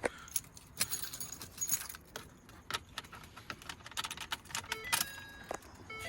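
Keys jangling and clicking irregularly as they are handled. A few short steady beep tones sound near the end.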